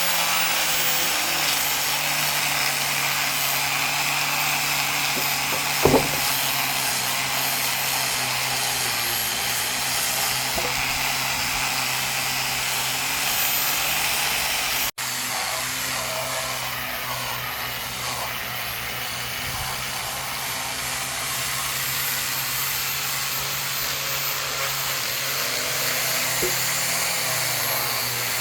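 Electric power tool running steadily as it works into wood. There is a sharp knock about six seconds in and a momentary dropout about halfway through.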